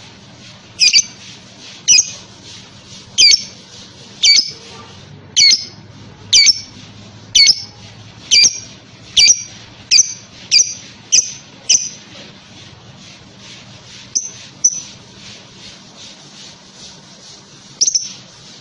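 Lovebird giving short, shrill squawks about once a second, a dozen in a row that quicken slightly, then after a pause two more close together and one last call near the end.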